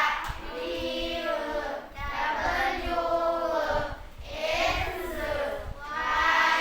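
Group of children chanting phonics sounds aloud in unison, drawing out each syllable for about a second or more in a sing-song way.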